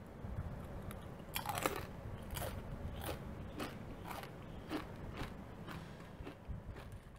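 Close-miked crunching of a dip-coated chip being chewed: sharp crisp crunches at about two a second, the loudest one about a second and a half in.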